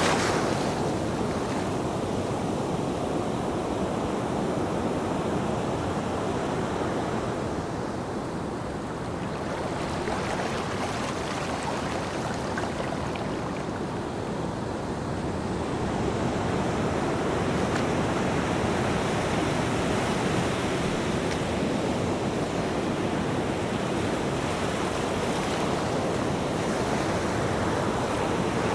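Ocean surf washing onto a beach: a continuous rush of breaking waves that eases about a third of the way in and builds again past halfway.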